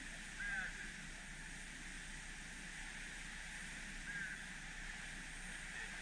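Short chirping bird calls, once about half a second in and again about four seconds in, over a steady hiss.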